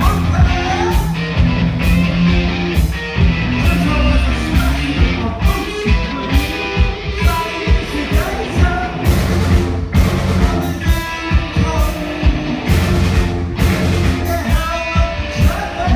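Live rock band playing, with a steady drum beat, bass and electric guitar under a male lead vocal.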